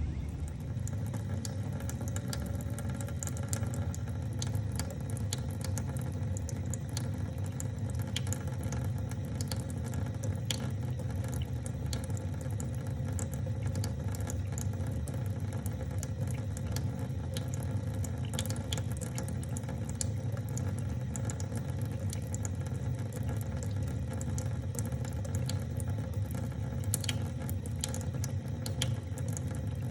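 A steady low mechanical hum with many small, irregular ticks over it.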